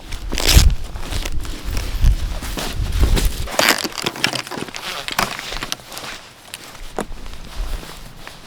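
Irregular crunching and crackling of packed snow, with low rumbling in the first few seconds, then fainter scattered crunches.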